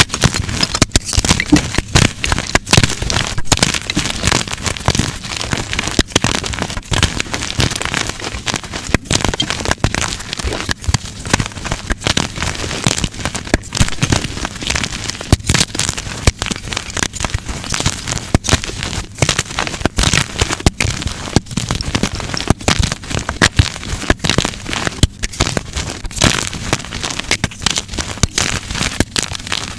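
Blocks of dyed gym chalk being crushed by hand, giving a dense, irregular run of snapping and crunching crackles.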